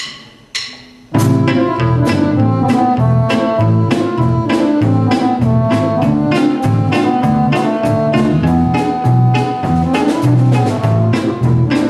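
Sevdah-style instrumental band music: two soft opening strikes, then the full ensemble comes in about a second in with fast, rhythmic notes over a steady bass line.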